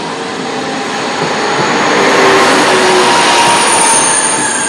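TGV high-speed train pulling into the platform and running close past, a rushing rumble that builds to its loudest about two seconds in. A high squeal comes in near the end.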